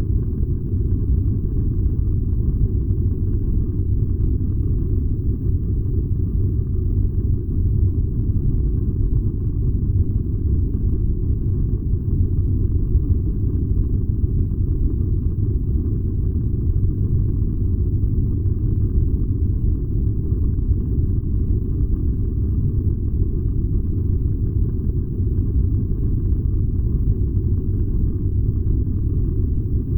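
Furnace burning with a steady low rumble that does not change.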